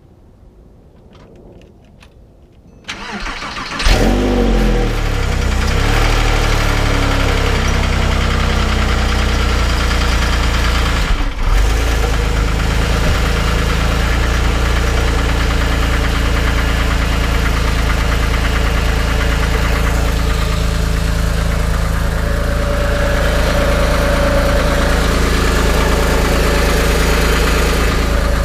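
Porsche 997.1 911 flat-six engine started: the starter cranks briefly about three seconds in, the engine catches with a rev flare that falls away over a few seconds, then it settles to a steady idle. The idle carries the knocking sound that the owner associates with bore scoring.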